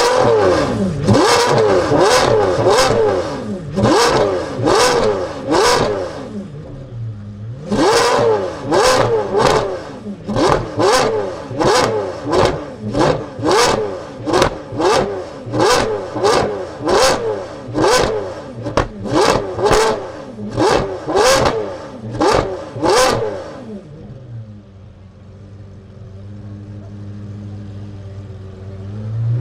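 Lamborghini Revuelto's V12 with a Gintani exhaust being blipped in quick, repeated free revs, roughly three every two seconds, with a short pause about six seconds in. Near the end the revving stops and the engine settles to idle.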